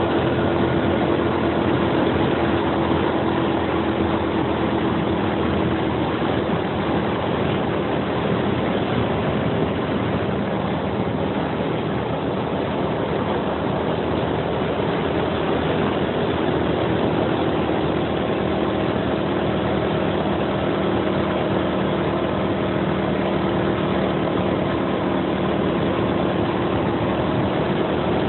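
Suzuki Axelo 125 underbone motorcycle's single-cylinder four-stroke engine running steadily under way while climbing a hill road, with a steady rush of wind and road noise over the microphone. The engine note shifts a little in pitch partway through.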